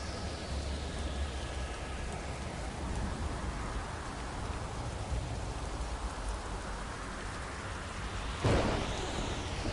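Steady rain with thunder rumbling low beneath it. A sharp, loud thunderclap cracks about eight and a half seconds in.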